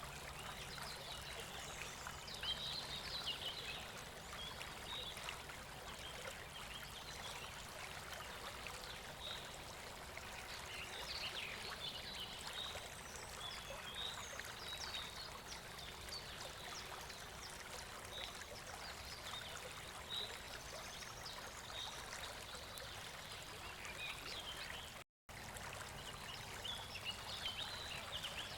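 Steady running water of a stream, with small scattered high-pitched sounds over it. The sound cuts out completely for a moment about 25 seconds in.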